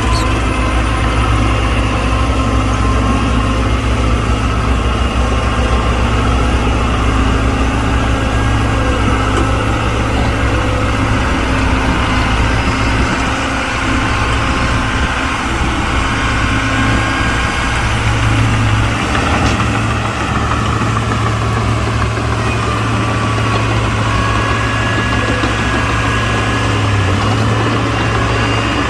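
Heavy diesel engines of earthmoving machinery running steadily with a deep, even drone.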